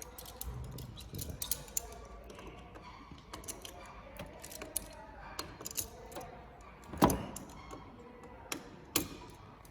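Hand tools and small metal parts clicking and clinking while a motorcycle's handlebar parts are loosened, with a louder knock about seven seconds in and another near nine.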